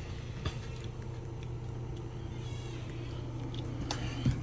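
RV furnace blower running with a steady hum, with a few faint clicks.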